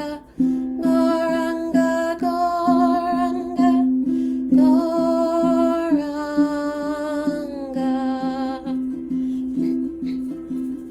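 Kirtan mantra chanting: a voice sings long, held phrases of the chant over a steadily strummed string instrument. The singing stops about nine seconds in, leaving the strumming alone near the end.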